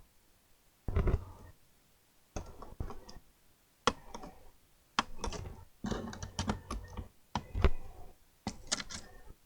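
Irregular clicks and knocks of a laptop being handled and its keys or buttons pressed, in short clusters with quiet gaps between them.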